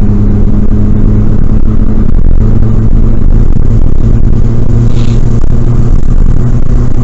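Loud, steady engine and road drone of a car driving at speed, heard from inside the cabin.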